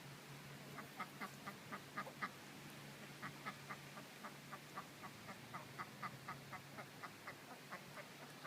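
A duck giving a steady run of short, soft quacks, about three to four a second, a little louder between one and two and a half seconds in.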